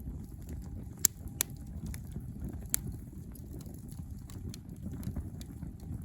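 Campfire burning, with a few sharp pops and crackles of wood, three loud ones in the first half, over a low steady rumble.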